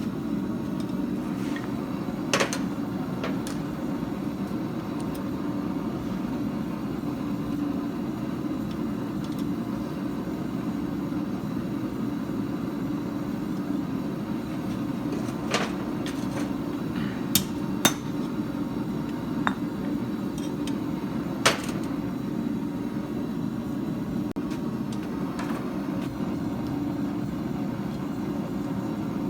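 A forge running with a steady roar, with a few scattered sharp metal clinks and taps, about six in all and mostly in the second half.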